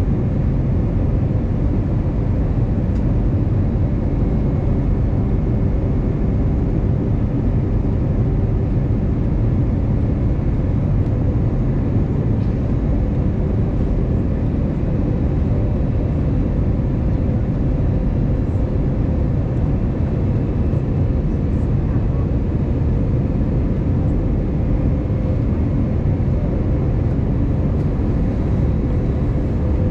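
Cabin noise inside an Airbus A320-251N (A320neo, CFM LEAP-1A engines) in flight: a steady low rumble of airflow and engines, with a faint steady hum.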